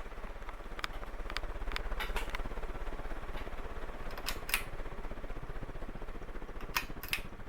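Harbor Breeze Southern Breeze ceiling fan motor starting up: a low pulsing hum that comes in and builds over the first two seconds, then holds steady, with scattered light clicks.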